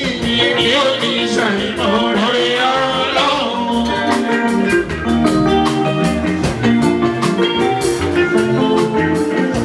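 A live fuji band playing: a steady beat of drums and percussion under sustained keyboard-like chords, with a lead line that bends in pitch in the first few seconds.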